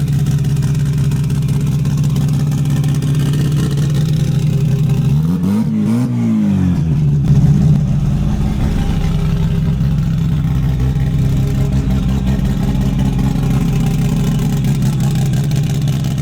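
An engine running steadily, with one brief rev that rises and falls in pitch about five to seven seconds in.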